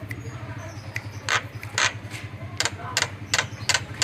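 Javan myna (jalak kebo) giving a run of short, harsh clicking notes, about six of them in the last three seconds, over a steady low hum.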